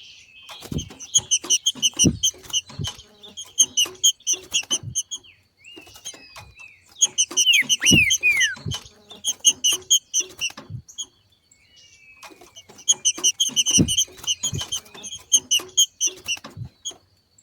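Green-winged saltator (trinca-ferro) giving its 'macheado' chatter, the call of a bird coming into breeding condition. It comes in three bouts of a few seconds each, every bout a fast run of sharp high notes mixed with soft low thumps. A few thin descending whistles fall between the bouts.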